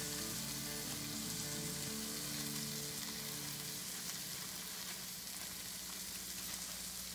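Sliced steak sizzling in a skillet just off the heat, a steady hiss that eases slightly over the seconds. Background music with long held notes plays along.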